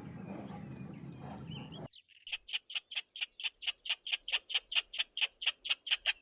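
A rapid, even series of short high chirps, about five a second, starting about two seconds in and lasting about four seconds, after a stretch of faint background noise.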